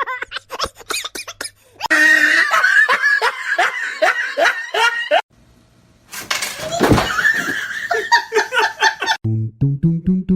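People laughing hard in two long bouts with a brief break between them. Plucked musical notes start near the end.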